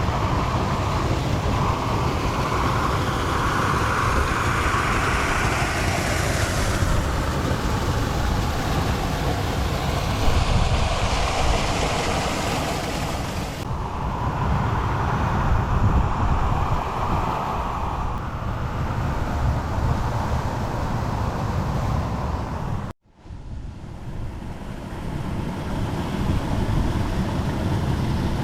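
Steady rush of waterfall and stream water, with wind buffeting the microphone as a low rumble. The sound breaks off for an instant near the end and comes back quieter.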